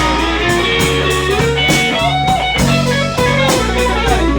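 Blues band playing a slow blues: electric guitar fills with bent notes between the sung lines, over bass and drums.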